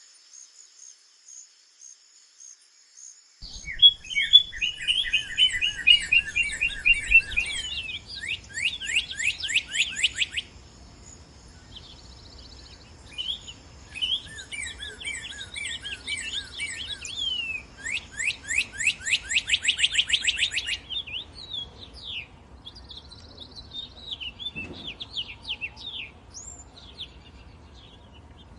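Northern cardinal singing: repeated phrases of rapid down-slurred whistles, coming in several loud bursts through the first two-thirds, with fainter chirps near the end. A thin, steady high-pitched tone runs beneath the first half.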